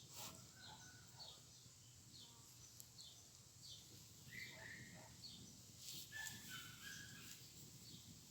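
Faint bird calls over quiet background: short high chirps repeating about twice a second, with a few lower whistled notes about four and six seconds in.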